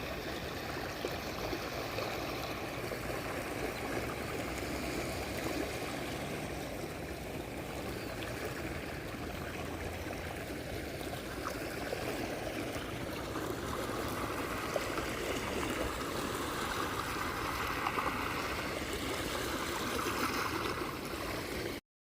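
Steady rush of moving water, an even wash of water noise without a beat or tune, that cuts off suddenly near the end.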